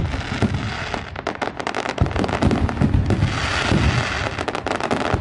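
Fireworks going off in quick succession: low booms with rapid crackling and popping.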